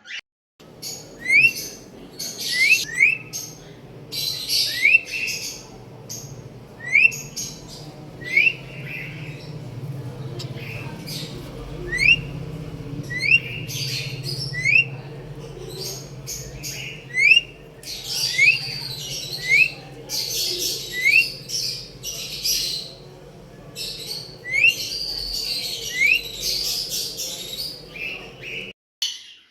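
Lovebirds calling: short rising chirps repeated about once a second, mixed with bursts of harsh chattering, over a steady low hum.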